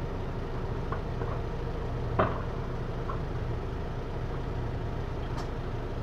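Hino Liesse microbus's J05C four-cylinder diesel idling steadily, heard from inside the cabin, with a sharp knock about two seconds in and a few faint clicks.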